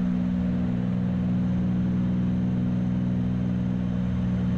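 Steady drone of a Cessna 310's piston engines and propellers in cross-country climb, heard from inside the cockpit, holding one even pitch.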